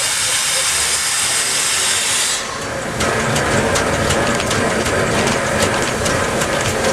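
Reading T1 steam locomotive venting steam with a loud, steady hiss that cuts off abruptly about two and a half seconds in. After that a lower rumble with irregular clicks and knocks.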